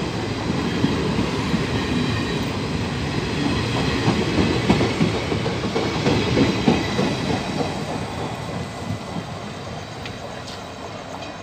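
Indian Railways passenger coaches rolling past close by, their wheels clattering over the rail joints in a dense run of clicks, loudest in the middle and fading away toward the end.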